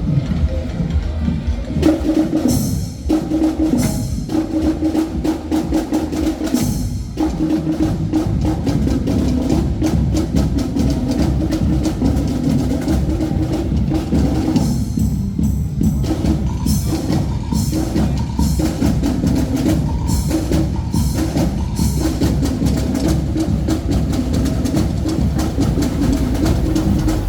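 Marching band drumline playing: fast snare strokes and rolls over bass drums, with brief breaks a few times.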